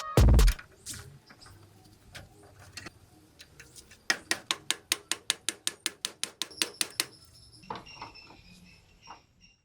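Ratchet wrench clicking in a quick, even run of about six clicks a second for some three seconds, after a few scattered light metal knocks.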